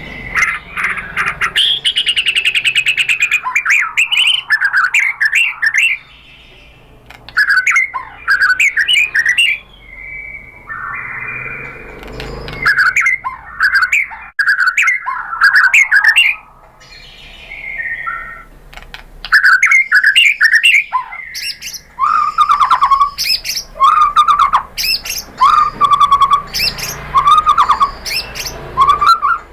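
White-rumped shama singing loudly: varied phrases of rich whistles, rapid chattering trills and harsh notes, with two brief pauses, then from about two-thirds of the way a run of repeated falling whistles, roughly one a second.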